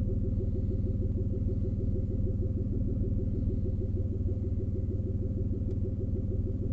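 2003 Ford Escape engine idling steadily, with an even pulsing beat of about seven a second.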